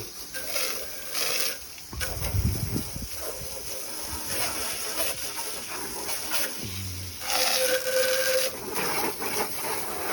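Water spraying onto a car during a wash, a hiss that comes and goes in bursts, with a brief steady whistling tone about three-quarters of the way through.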